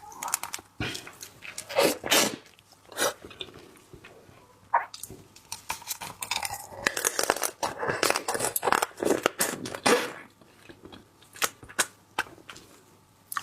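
Close-up eating sounds as a crab is broken apart and eaten: irregular crunching and cracking of shell, tearing, and wet chewing.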